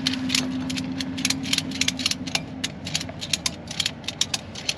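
A quick, irregular run of sharp mechanical clicks, several a second, over a steady low hum that fades out a little over halfway through.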